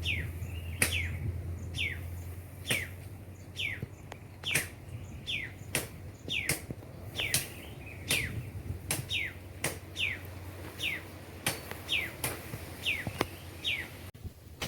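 A bird calling over and over, a short chirp that slides downward, repeated about once a second, with a steady low hum underneath.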